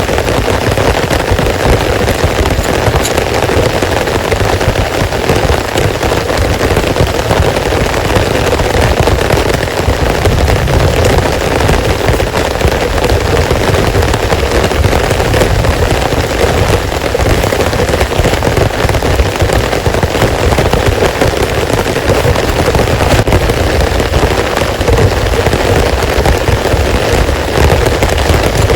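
Heavy rain falling steadily, a loud dense patter with no break.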